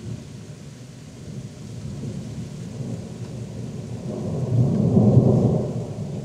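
Thunder from a supercell thunderstorm: a low rumble that builds over several seconds to a loud peak about five seconds in, then eases off, with rain falling underneath.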